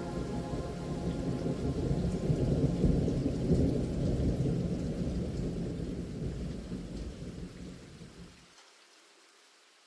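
Steady rain with a long rolling rumble of thunder that swells about three seconds in, then fades away, its deep part ending abruptly near the end.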